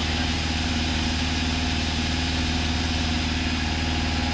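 Steady drone of a Cessna 172's piston engine running at low power on the runway, heard through the cockpit. The pitch stays even throughout, with no revving.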